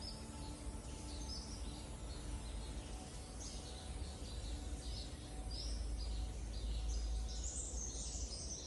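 Forest birds chirping: many short, high calls repeating throughout and crowding together near the end, over a steady low rumble.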